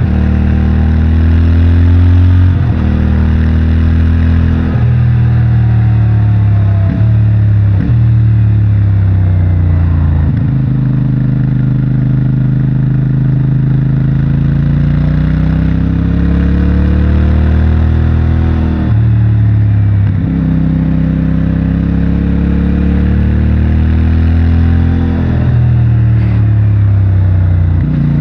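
CFMOTO 450MT's parallel-twin engine through its stock exhaust, ridden hard: the revs climb and fall repeatedly through corners. There are several quick gear changes, with the longest steady pull between about 12 and 19 seconds in.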